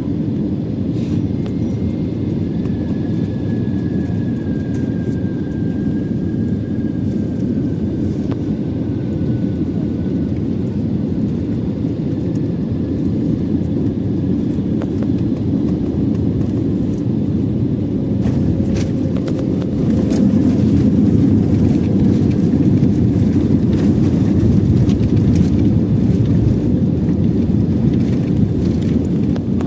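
Airbus A320 airliner's jet engines rumbling steadily as it comes in to land, the rumble growing louder about twenty seconds in.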